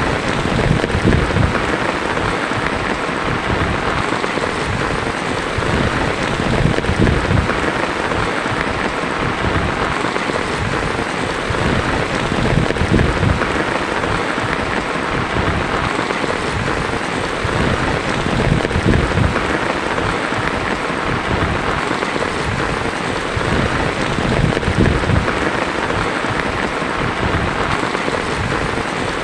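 Heavy rain pattering steadily on a tin roof, an even, unbroken hiss with no lulls.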